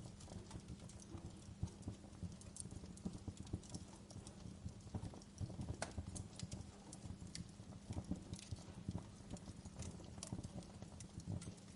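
Wood fire crackling in a fireplace: irregular snaps and pops over a steady low rumble.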